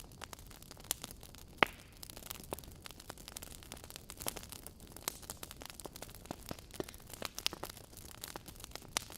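Wood fire in a fireplace crackling, with irregular sharp pops and snaps from the burning logs, one louder pop about one and a half seconds in.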